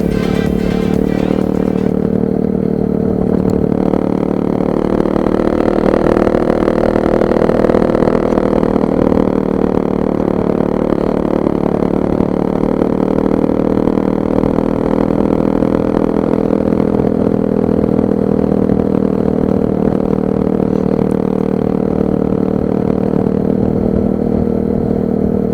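Nitro Sky 125cc pit bike's single-cylinder four-stroke engine running at fairly steady revs while being ridden, with a slight rise and fall in pitch partway through.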